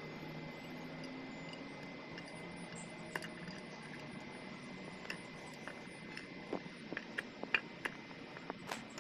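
Scattered light metallic clicks and taps from motorcycle engine parts and tools being handled on a workbench, growing more frequent about halfway through, over a faint steady high whine.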